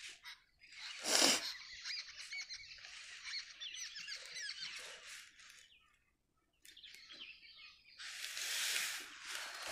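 Small birds chirping repeatedly in the background, with a sharp rustle of the exam paper being moved about a second in and a longer rush of noise near the end. The sound cuts out completely for about half a second around six seconds in.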